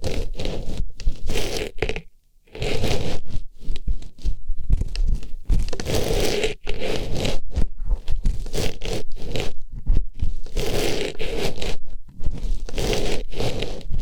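Artificial flower pushed into and rubbed around an ASMR microphone's ear, giving close, loud scratchy rustling and scraping in quick overlapping strokes, with a short pause about two seconds in.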